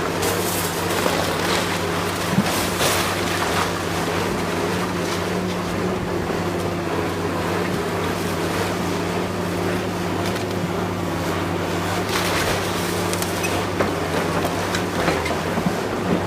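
Diesel engine of heavy demolition machinery running steadily with a low, even drone, with a few brief crunching noises from the work.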